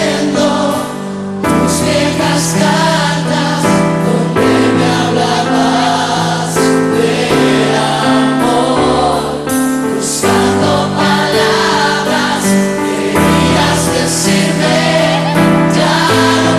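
A group of voices singing together in chorus with instrumental backing: a medley of familiar Latin American campfire songs performed on a stage.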